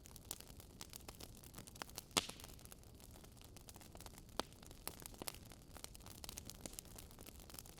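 Wood fire crackling: a steady scatter of small pops and snaps over a faint hiss, with a louder pop about two seconds in.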